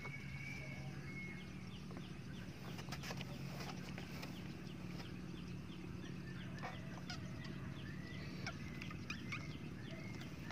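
Small birds chirping in quick repeated short falling calls, over a steady low hum, with a few sharp knocks.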